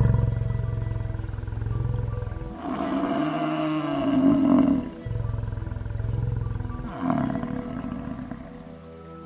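Lion growling with a low, rapidly pulsing rumble, broken twice by longer calls that rise and fall in pitch, about three seconds in and again about seven seconds in.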